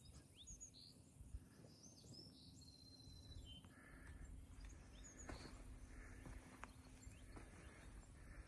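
Faint outdoor ambience: scattered short bird chirps, a steady insect drone, and a few soft clicks.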